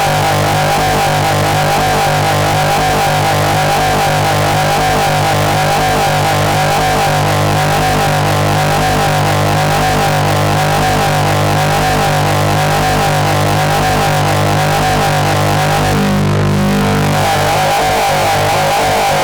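Harsh experimental noise music: a dense, loud wall of distorted noise over steady low drones, with a fast pulsing, warbling layer above them. About sixteen seconds in, the top end briefly dulls and a new low tone comes in for about a second.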